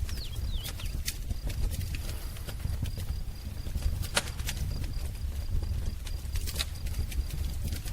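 Wood fire crackling, with scattered sharp pops over a low steady rumble. A bird gives a brief chirp near the start.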